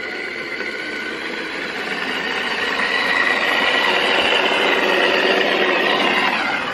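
Brushed motor salvaged from a pressure washer, run on 24 V DC through a PWM controller, whining steadily as it drives a mini electric tricycle. It grows louder about two and a half seconds in and eases off near the end.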